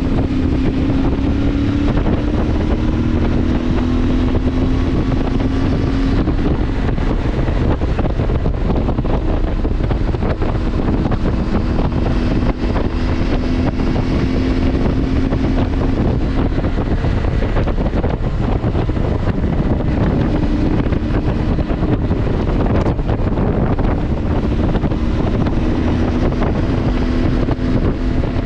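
CFMoto engine running steadily under way, its tone drifting gently up and down with speed, with heavy wind buffeting on the microphone.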